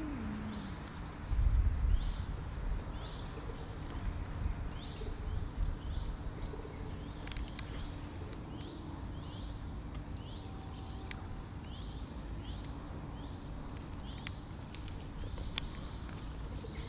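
A small bird repeating a short, high, down-slurred call over and over, roughly twice a second, over steady outdoor background noise. A cat's long falling growl trails off in the first second, and a low rumble, the loudest moment, comes about a second and a half in.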